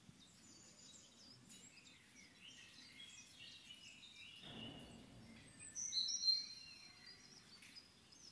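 Background birdsong over a faint steady hiss: scattered high chirps, with a louder cluster of whistled notes about six seconds in.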